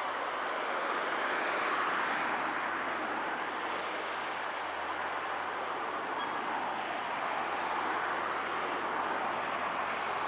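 John Deere 6150R tractor pulling a plough through a field, heard as a steady wash of engine and working noise with a faint low hum and no distinct events.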